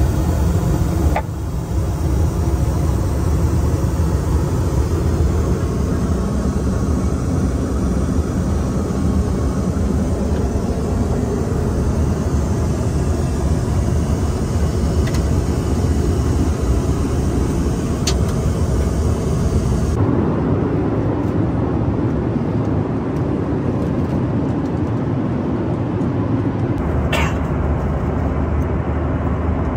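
Steady engine and airflow noise inside the cabin of a Boeing 737-900ER airliner, heavy in the low end, with an abrupt change in the noise about two-thirds through and a couple of brief clicks.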